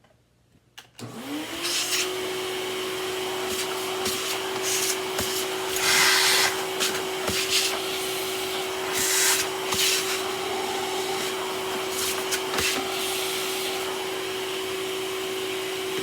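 A vacuum cleaner switching on about a second in, its motor spinning up with a rising whine to a steady hum. It then runs steadily with brief louder hissing surges, as it sucks packed dirt out of a clogged vacuum.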